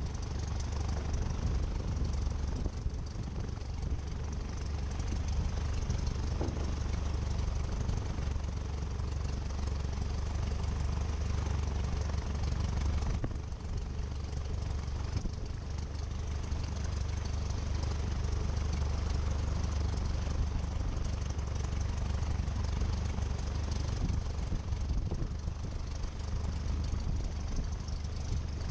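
Cessna 172 Skyhawk's piston engine running steadily at low power on the ground, a deep drone heard through the cockpit headset audio.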